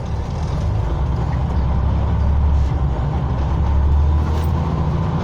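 Scania OmniCity bus engine rumbling under load as heard from inside the cabin, growing louder over the first couple of seconds and then holding steady.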